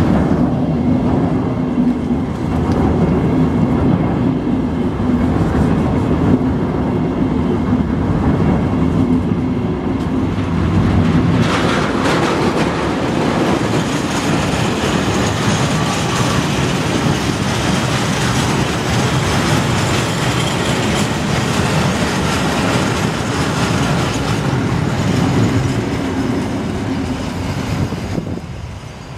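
Train of new CAF metro cars rolling slowly past on the rails behind a diesel shunting locomotive: a steady rumble and clatter of wheels on the track, with a low engine drone.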